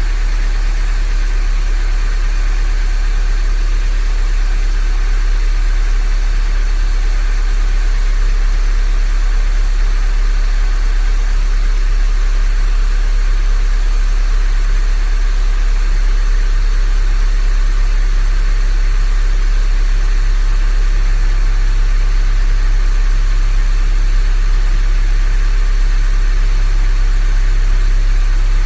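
Honda Grace GM9's engine idling steadily in a 5 °C garage, a minute or so after a cold start. The idle gets slightly louder about a quarter of the way in, then holds.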